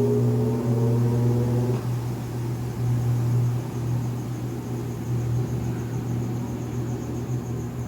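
Consul Facilite 8 kg top-loading washing machine in its spin cycle: a steady motor hum with a rumble from the drum. A higher whine cuts out about two seconds in.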